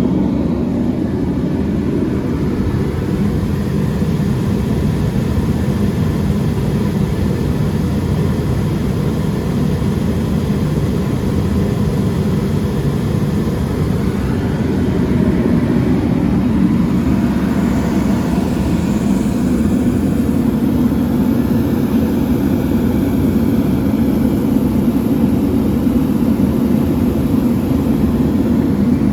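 Sealey IR55 45.5 kW infrared paraffin/diesel heater running: a steady, low rushing drone from its burner and fan, even and unchanging throughout.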